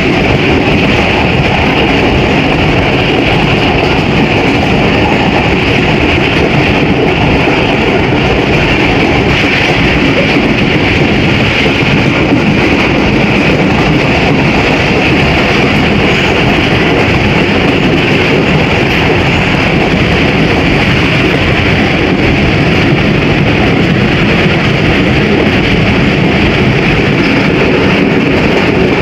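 Pakistan Express passenger train running on the track: a steady, loud rolling noise of the moving train.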